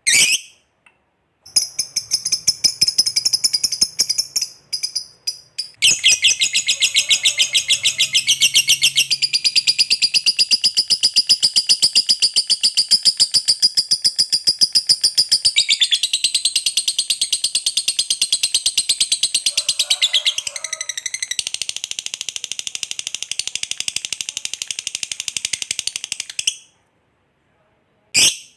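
Lovebird giving a long 'ngekek' trill: a very fast, even, high-pitched chatter held for about twenty seconds, its pitch shifting a few times. A few short chirps come before it, and it stops abruptly near the end.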